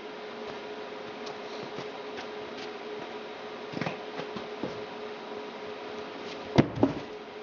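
A machine running with a steady hum, with scattered knocks over it and two sharp knocks close together near the end.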